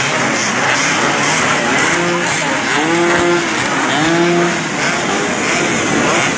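Several two-stroke motorcycle engines running together, with engines revving up and holding a higher pitch three times about two to four seconds in.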